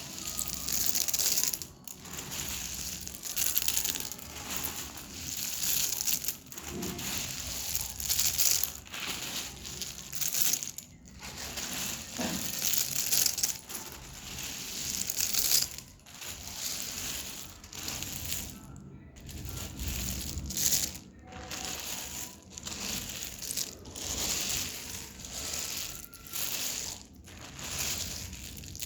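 Dry edible clay crunching and crumbling in repeated bursts, a second or two apart.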